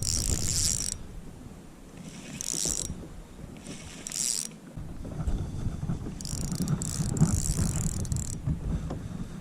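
Fishing reel working in several short whirring bursts while a hooked fish is played: line going out against the drag or being reeled in.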